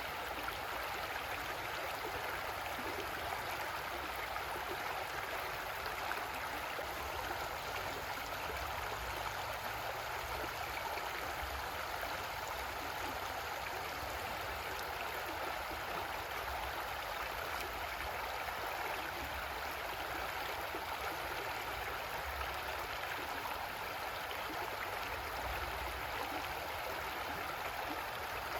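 Creek water flowing and gurgling with a steady rush.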